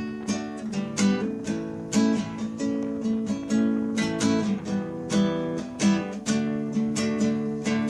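Background music: strummed acoustic guitar in a steady rhythm.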